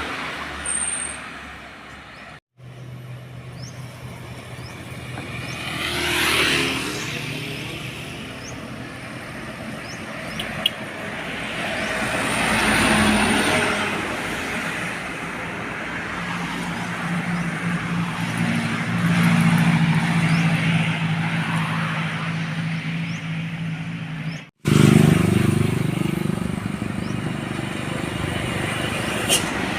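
Heavy diesel trucks driving past on a road, engines running, with the sound swelling and fading as each one passes, in several short clips joined by abrupt cuts.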